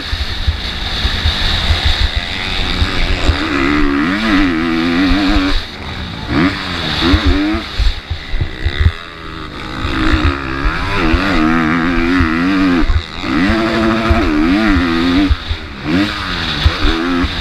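MX2-class motocross bike engine revving hard and backing off over and over as it is ridden round the track, its pitch rising and falling in repeated surges, under a constant low rumble.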